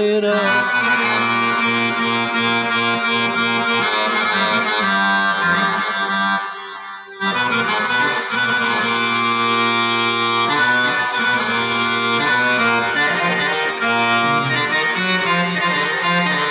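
Accordion playing an improvised Arabic taqasim: held melody notes over sustained bass notes, with a brief pause about seven seconds in.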